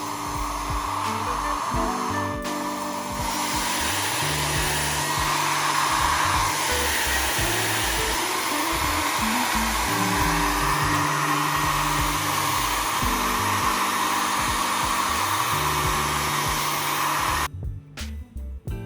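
Haier hair dryer blowing steadily, its rushing airflow wavering a little in pitch, then cutting off suddenly near the end, over background music.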